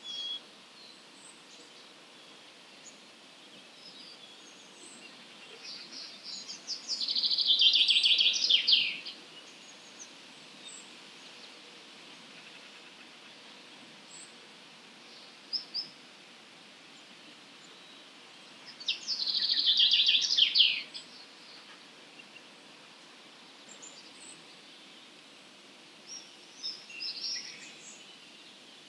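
Songbird singing two loud, rapid song phrases about two seconds long each, some twelve seconds apart, with faint scattered chirps from other birds over a steady low background noise.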